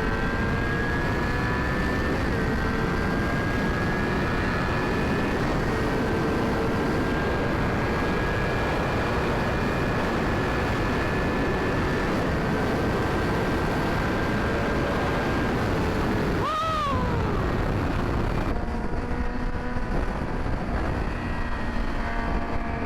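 Yamaha R6 inline-four sport bike engine running at steady highway speed, with heavy wind noise on the helmet microphone. About two-thirds of the way through, the engine note breaks briefly and glides in pitch, then carries on lower with less wind.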